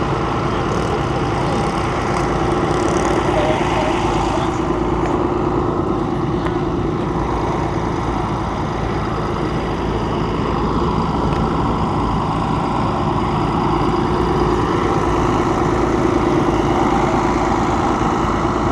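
An engine running steadily at idle, a constant hum with a few steady tones and no revving.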